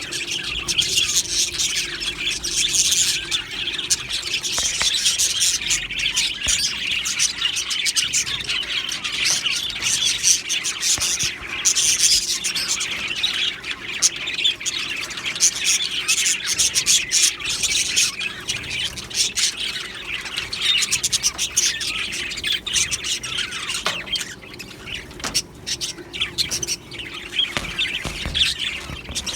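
A flock of budgerigars chirping together: a dense, continuous chatter of many overlapping short calls, with no pause.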